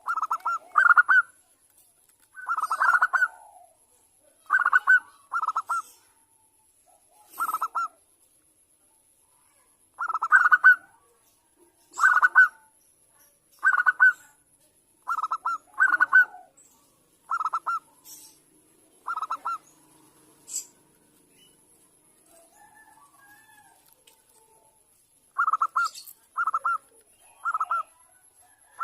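Bangkok-type zebra dove (perkutut) singing its cooing song: short notes repeated in ones, twos and threes every second or two, with a pause of a few seconds before a last group of three.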